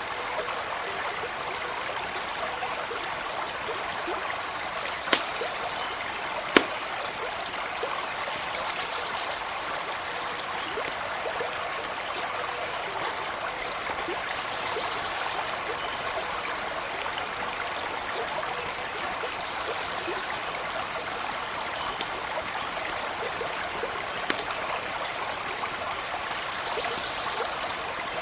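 Small stream flowing steadily, with a few sharp pops from a campfire, the two loudest about five and six and a half seconds in.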